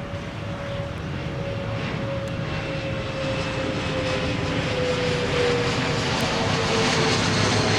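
Airplane engines passing overhead, growing steadily louder, with a whine that slowly drops in pitch.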